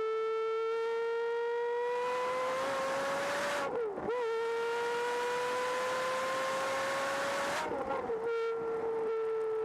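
Supercar engine at high revs under hard acceleration, a shrill, siren-like note. Its pitch climbs steadily through the gear, drops sharply with a quick upshift about 4 s in, climbs again, and shifts once more near 8 s before settling at a steady pitch. Rushing air and road noise sit beneath it during the pulls.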